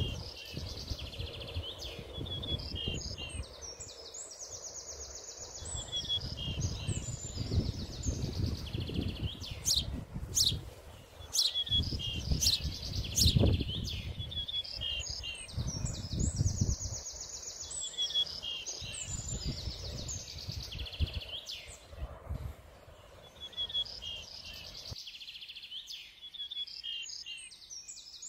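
Birds singing: high chirps and quick trilled phrases, the same pattern coming back every several seconds. A low, uneven rumble runs underneath and stops near the end.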